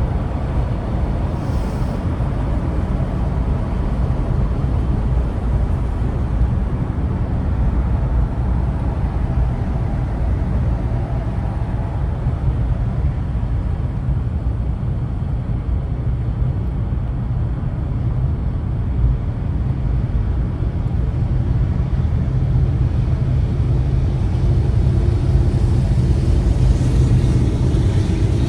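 Steady low engine and road rumble of a vehicle creeping along in slow traffic, a little louder near the end.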